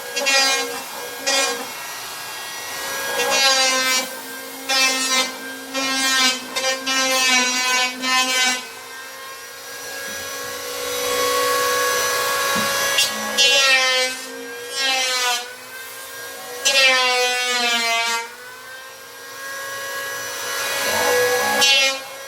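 A saw cutting plywood in repeated back-and-forth strokes, the blade squealing and shifting in pitch as it rubs through the wood. There is a steadier, quieter stretch of cutting midway.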